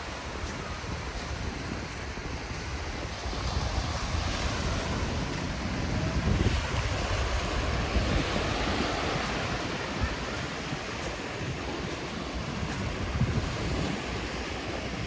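Waves washing up on a sandy beach, with wind buffeting the microphone.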